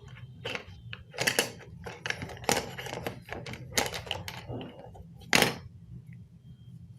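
Hands handling and setting down the pieces of a model helicopter kit: a run of irregular clicks, taps and rustles, with one louder knock about five and a half seconds in.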